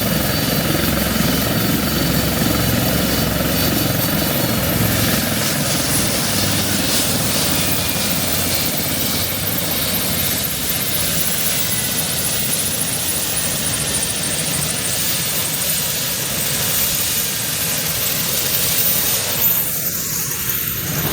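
Westland Lynx helicopter's twin turboshaft engines and rotor running steadily, with faint turbine whines slowly falling in pitch as the helicopter winds down at the end of its run.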